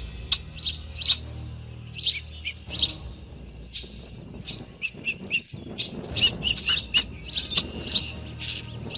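Birds chirping in quick, short, high notes that grow busier in the second half, over a low steady hum.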